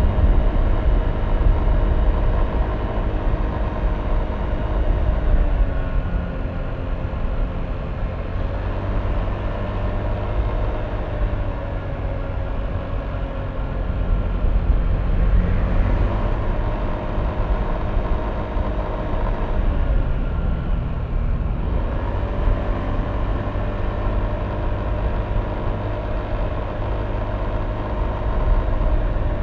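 Yamaha Aerox V3 scooter's single-cylinder engine running under way, its pitch dipping and climbing again several times as the throttle is eased and opened, over a steady low rumble.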